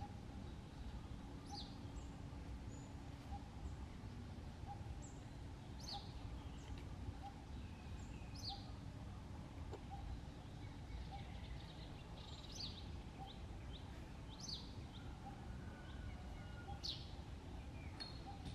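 Birds chirping: short, sharp, high chirps every second or two over a steady low rumble of outdoor background noise.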